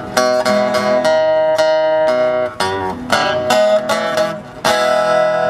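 Acoustic guitar playing the closing instrumental bars of a country-blues song, with a few notes bending in pitch about halfway through and a held final chord near the end.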